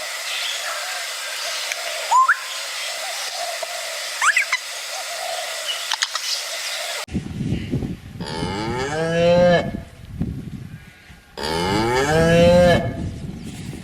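A cow mooing twice, each call lasting over a second and rising then falling in pitch, after a few seconds of thin background with a few short chirps that cuts off abruptly about halfway in.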